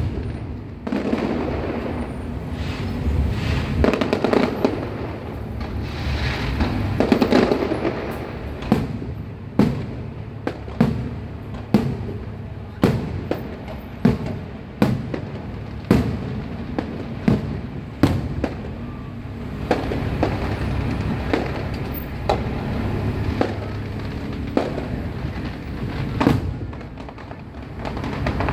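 Aerial fireworks going off. The first few seconds are a dense crackling rumble. From about eight seconds in comes a run of sharp bangs, roughly one a second, each with a short echoing tail, before it settles back into a steadier rumble near the end.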